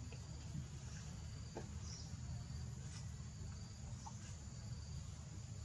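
Faint outdoor background: a steady low rumble, with a few soft, short high-pitched insect chirps scattered through it.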